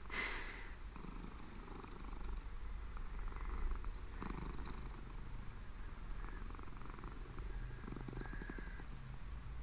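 British Shorthair cat purring steadily, a low continuous rumble.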